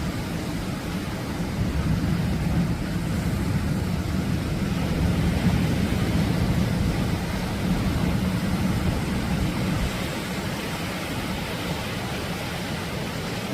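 Atlantic surf breaking and washing ashore: a steady rushing noise with a heavy low rumble. It swells between about two and eight seconds in and eases slightly toward the end.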